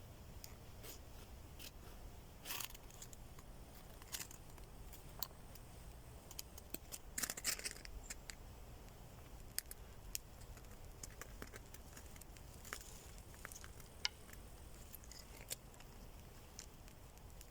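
Faint, scattered clicks and scrapes of small wood and kindling being handled while a campfire is laid, with a brief flurry of crackly scraping about seven seconds in.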